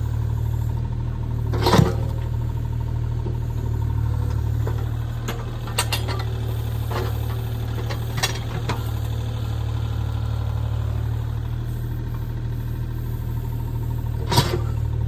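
An engine running steadily at a constant speed, with a few sharp knocks or cracks over it, the loudest about two seconds in and again near the end.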